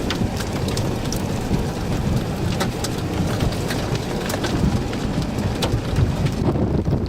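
Storm rain pouring, with scattered close drops ticking sharply against the microphone or its housing over a deep wind rumble. The rain hiss thins out near the end.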